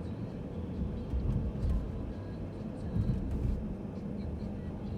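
Mercedes-Benz C300 (W205) on the move: a steady low rumble of engine and road noise, swelling briefly twice.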